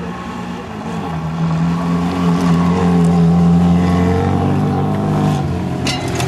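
Classic Lada sedan's engine running hard at steady revs as the car races past on a dirt track: it grows louder from about a second in, is loudest mid-way, then fades. A couple of sharp clicks come near the end.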